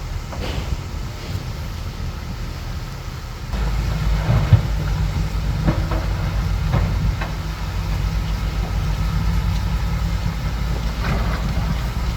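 Bulldozer's diesel engine running under load, growing louder about three and a half seconds in, with scattered clanks of the steel tracks and blade.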